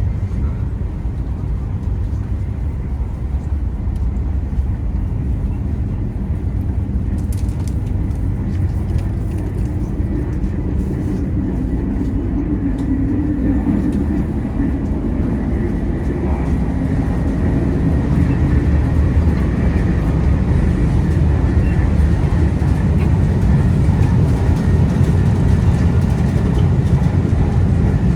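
Taiwan High Speed Rail train running, a steady low rumble and rush that grows gradually louder.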